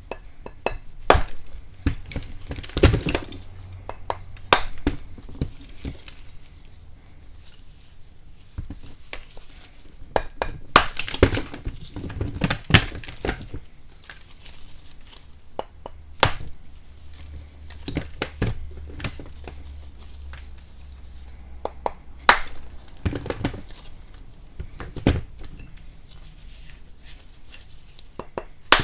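Lumps of chalk being split and knocked: sharp cracks and knocks at irregular intervals, several close together about halfway through.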